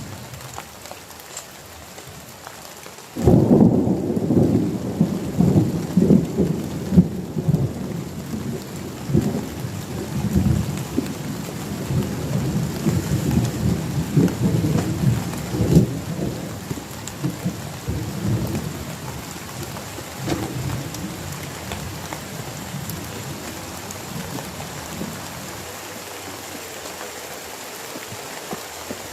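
Heavy rain falling steadily, with a clap of thunder breaking in suddenly about three seconds in and rolling on for some fifteen seconds before slowly dying away.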